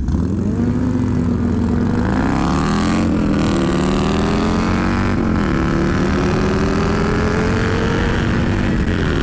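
Sport motorcycle's inline-four engine accelerating hard through the gears, its pitch climbing steadily and dropping briefly at each of three upshifts, with wind noise rushing over the helmet microphone.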